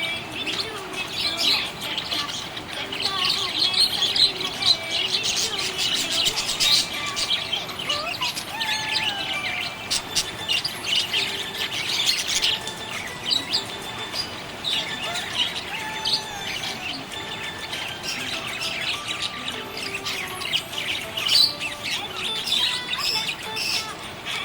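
Budgerigars chirping and warbling continuously: a dense stream of quick, high chirps with short sliding notes, without a break.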